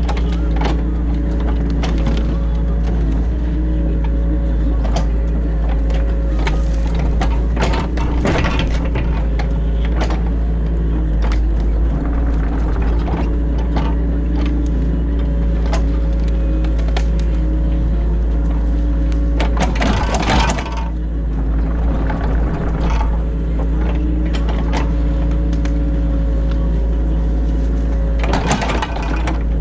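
Excavator diesel engine running steadily under load, heard from inside the cab, while the hydraulic arm and bucket work the ditch, with frequent clunks and knocks. Three short, louder rushes of noise come about a quarter of the way in, two-thirds in and near the end.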